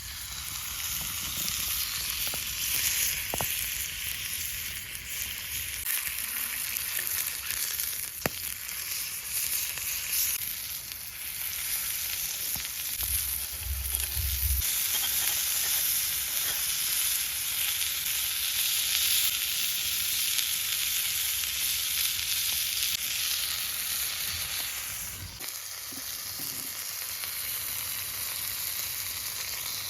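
Steak sizzling steadily in a cast-iron skillet over a campfire.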